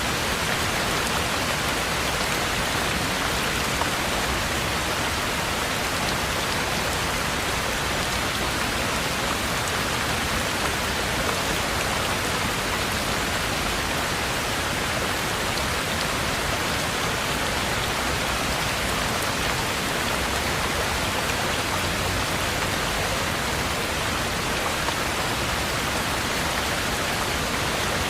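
Heavy rain falling steadily on a roof, an even unbroken patter.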